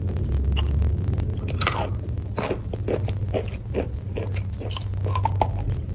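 Close-up biting and crunchy chewing of a hard, crumbly white chunk, with a crisp crunch about twice a second. A steady low hum runs underneath.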